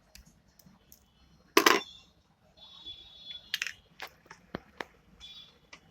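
Small tools handled on an electronics workbench: one loud clack about a second and a half in, then a run of light metallic clicks and brief rustling.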